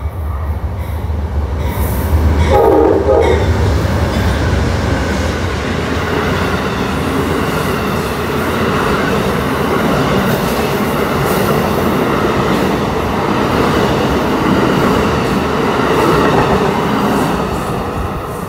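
A passenger train passes close by: loud, rushing rail and wheel noise that builds about two seconds in, holds for roughly fifteen seconds, then fades near the end. A short horn note sounds about three seconds in.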